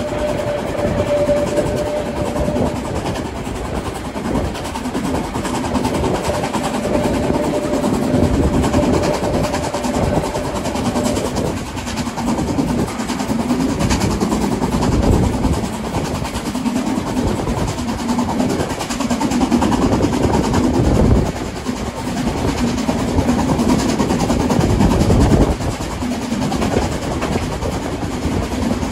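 Harz narrow-gauge steam train running, a continuous rumble that swells and falls, with a steady tone that stops about eleven seconds in.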